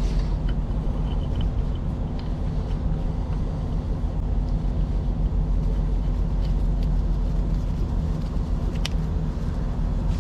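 A vehicle engine idling steadily, a low even rumble, with a single sharp click about nine seconds in.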